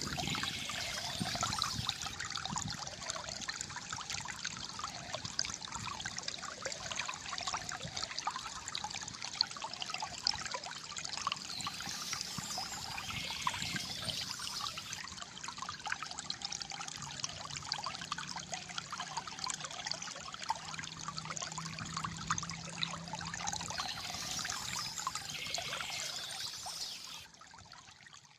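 Water flowing and trickling with a steady gurgle of many small splashes. It drops away sharply near the end.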